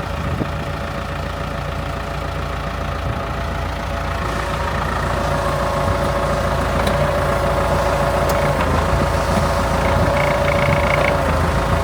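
Ford 5610 tractor's four-cylinder diesel engine running steadily. From about four seconds in it runs a little louder, with a steady whine added.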